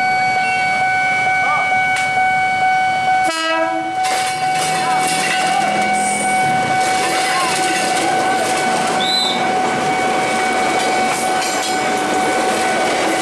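KRL Commuter Line JR 205 series electric train running past at a level crossing, its wheels clattering over the rail joints, while the crossing's warning alarm sounds a steady electronic tone.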